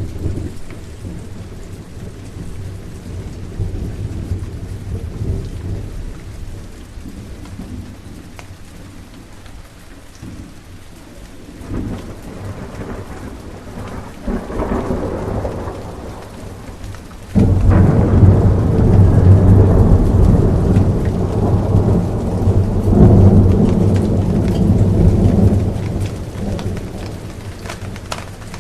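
Thunderstorm: steady rain falling, with thunder rumbling softly at first and then a sudden loud crack of thunder about two-thirds of the way through, rolling on for several seconds before fading back to the rain.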